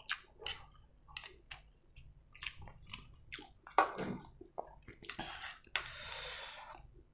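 Close-up eating sounds of someone chewing noodles: wet mouth clicks and smacks in quick succession, then near the end a steady hiss about two seconds long.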